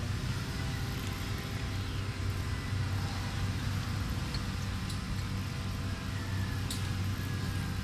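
A motor vehicle's engine running steadily, heard as an even low hum with a faint haze of road or wind noise.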